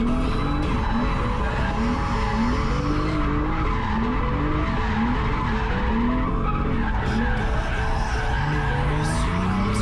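BMW E36's turbocharged M52B28 straight-six heard from inside the cabin, its revs rising and falling over and over, about once a second, while the car drifts with the rear tyres skidding.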